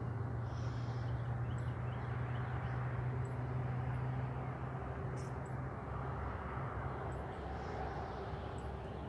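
Outdoor ambience: a steady low engine hum that fades out about six seconds in, over a wash of background noise, with a few faint bird chirps.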